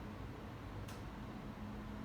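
Faint steady room noise with a low hum, and a single faint tick about a second in.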